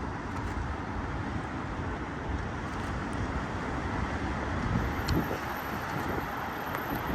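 Steady traffic noise from cars passing on a wet street below, a continuous rushing hum.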